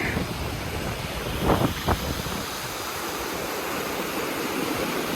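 Steady rush of falling and flowing river water at a waterfall, with wind buffeting the microphone. Two short knocks sound about a second and a half in.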